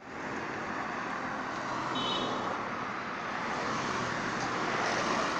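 Steady outdoor traffic noise, with a brief high-pitched tone about two seconds in.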